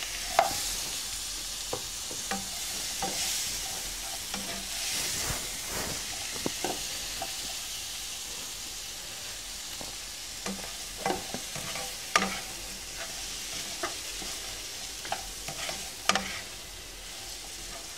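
Sliced green tomatoes sizzling in hot oil in a nonstick frying pan as a metal spatula stirs them, with scattered scrapes and taps of the spatula against the pan. The sizzle is strongest in the first few seconds and eases gradually.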